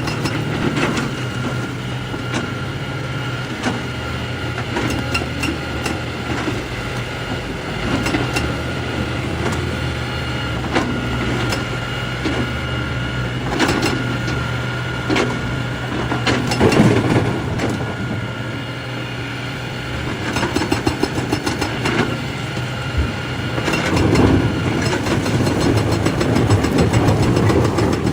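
Excavator's diesel engine running steadily, with scattered clanks and knocks of metal on rock throughout. The steady engine tone changes about 24 seconds in, and the sound grows rougher and louder toward the end.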